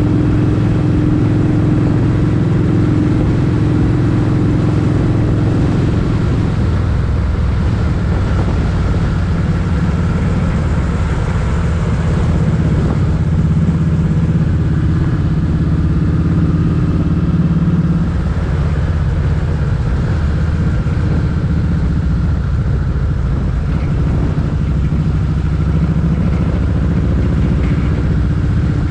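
Motorcycle engine running steadily under way, heard from on the bike with a low rumble beneath. The engine note changes pitch a couple of times, about six seconds in and again near eighteen seconds.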